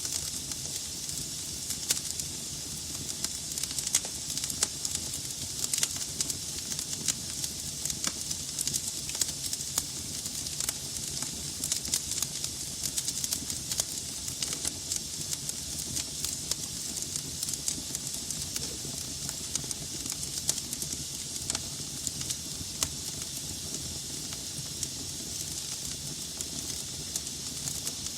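Wood fire burning in a fireplace: a steady hiss with frequent irregular sharp crackles and pops from the burning logs, over a low rumble.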